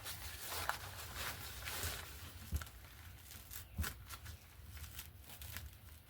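Paper rustling and crinkling as magazine pages are handled, with a few light taps and clicks.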